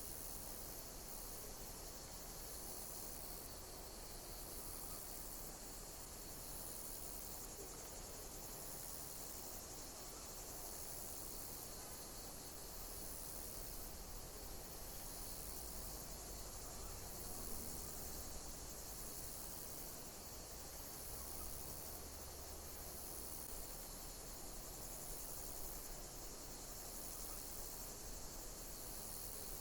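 Insects chirping: a steady, high-pitched chorus with a louder, higher chirp repeating about every second and a half.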